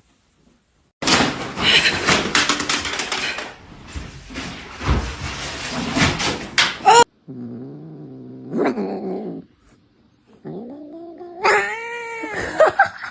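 A cat's drawn-out meows and yowls that arc up and down in pitch, mostly in the second half. Before them come several seconds of dense rustling and scuffling noise.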